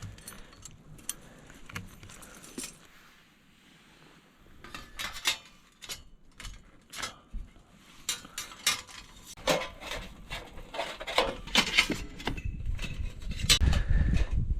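Light metal pieces clinking and knocking against each other as they are handled: irregular sharp clicks, sparse at first and busier and louder from about halfway, with a low rumble near the end.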